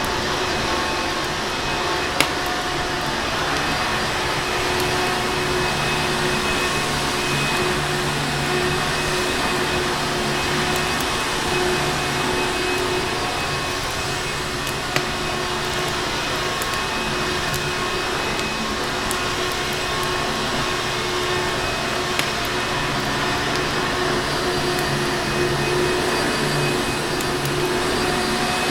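A vacuum cleaner running steadily, a constant whooshing hum with no change in pitch. A few single sharp pops from a crackling fireplace break through it, about 2 s in, near the middle and later on.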